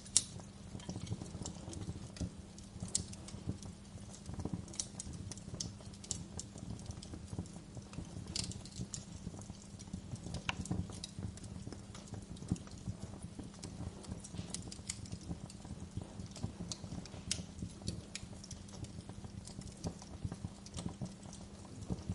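Wood fire crackling, with irregular sharp pops and snaps, some louder than others, over a steady low rumble.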